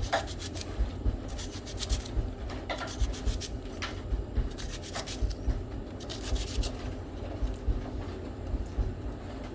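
Kitchen knife cutting through an onion held in the hand, with short crisp scraping cuts at irregular intervals.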